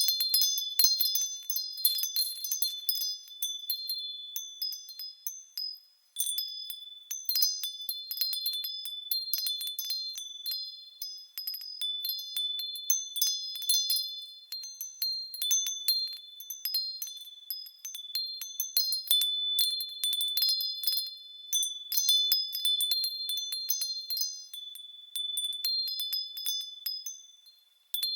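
Japanese fūrin wind bells tinkling in the breeze, with quick, irregular strikes of bright, high ringing tones that overlap and ring on. They die away briefly about six seconds in and again near the end, then start up again.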